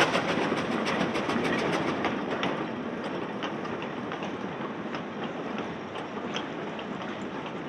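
Steam train going past. The locomotive's rapid, evenly spaced exhaust beats fade out in the first two seconds, leaving the rumble of the carriages on the rails with scattered wheel clicks, slowly growing quieter as the train moves away.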